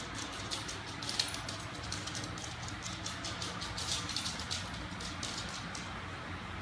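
ILIFE robot vacuum running, a steady motor hum with irregular small clicks and rattles as it cleans.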